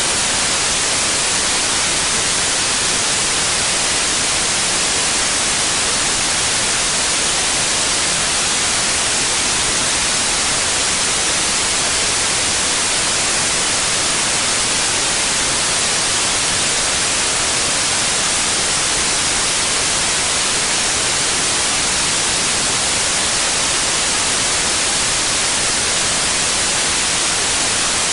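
Steady white noise: an even, unchanging hiss that does not vary.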